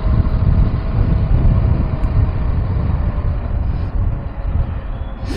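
KTM 390 Adventure's single-cylinder engine running steadily as the bike rides along, under a heavy rush of wind noise on the microphone.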